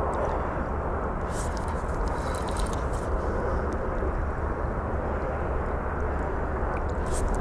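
Wind buffeting the microphone: a steady low rumble and rush with no let-up, with a few faint ticks in the middle and near the end.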